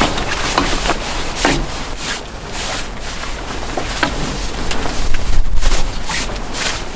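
Strong wind gusting against a camping tent, the fabric flapping and snapping irregularly over a low rumble, loudest in gusts after the middle.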